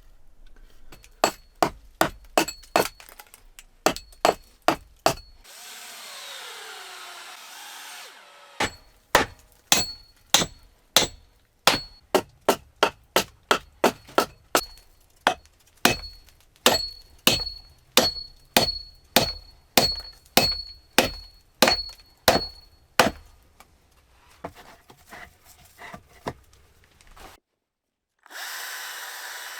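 A hand tool working a dry wooden blank: sharp, regular strokes with a faint metallic ring, about two a second. They come in a short run, then a long one, and fade into lighter taps.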